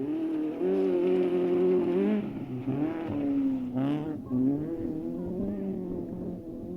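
Racing car engine revving, its pitch rising and dropping several times, with a brief harsher burst about four seconds in.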